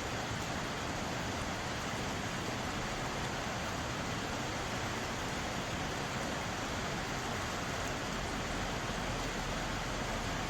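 Mountain stream water flowing over rocks in a steady, even rush.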